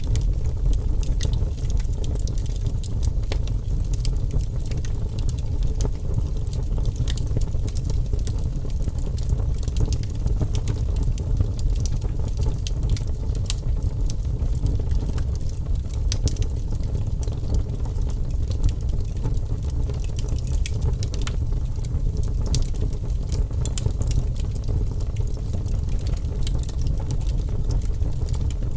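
Wood fire burning in a fireplace, crackling with frequent sharp pops and snaps over a steady low rumble of flames.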